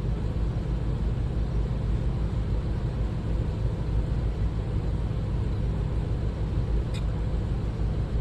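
Steady low rumble of a powered sharpening machine running while the shear's ride line is honed on a 5000 grit stone, with one faint tick about seven seconds in.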